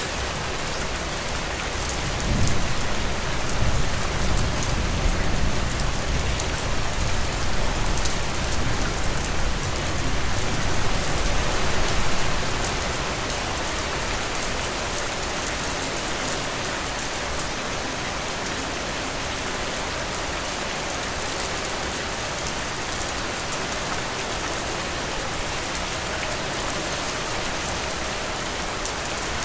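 Heavy rain falling steadily, a dense, even hiss of drops. From about two seconds in, a low rumble swells under it and fades again by about twelve seconds.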